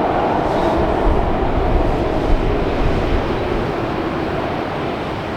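Jet airliner passing with its engines running, a loud steady noise that slowly fades.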